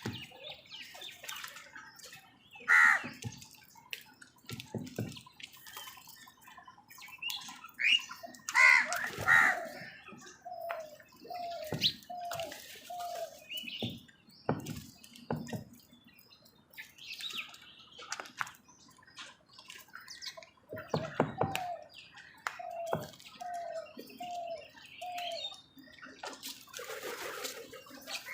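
Crows cawing and squabbling among other birds' calls, with two runs of short repeated notes and scattered sharp knocks and flaps.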